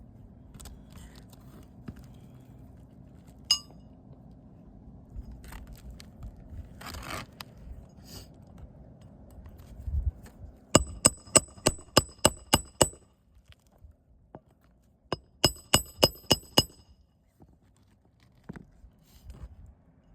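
Hammer driving nails into a roof shingle: two quick runs of ringing metal-on-metal blows, about ten strikes and then about seven, with some scraping and a lone click before them.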